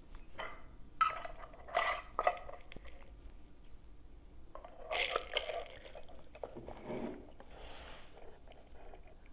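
Tableware being handled: sharp clinks and clicks about a second and two seconds in, more clatter around five seconds, and softer rustling near the end.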